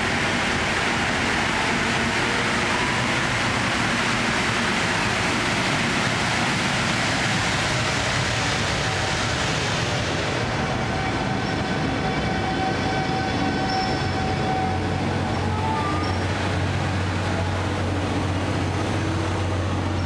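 JR East EF510 electric locomotive and its sleeper-train carriages running slowly past along a station platform. For the first half the locomotive's loud rushing noise dominates. About halfway through this gives way to the quieter run of the carriages, with faint high steady whines and a steady low hum setting in later.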